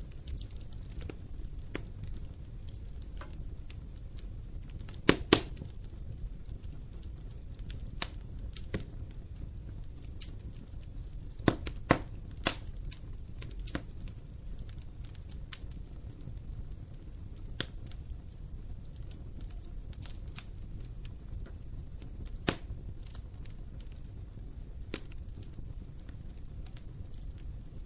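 Wood fire burning in a fireplace: a low steady rumble with irregular crackles and sharp pops. The loudest pops come about five, twelve and twenty-two seconds in.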